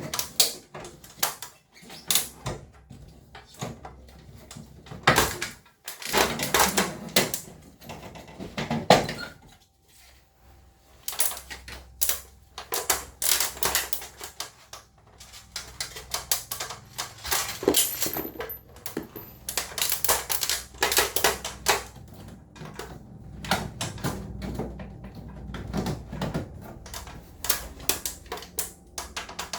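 Irregular clicks, knocks and clatter of plastic and metal parts being handled, in short clusters, while a ceiling cassette air conditioner is worked on.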